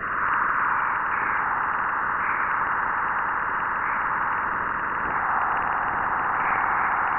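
Sonified space recording of a giant planet's magnetosphere, its radio emissions converted to sound: a steady, eerie hissing whistle with a few faint brief rising chirps scattered through it.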